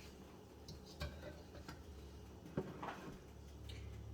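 A few faint clinks and knocks of a pan and kitchen utensils while oil is poured off the pan, one about a second in and a pair about two and a half seconds in, over a low steady hum.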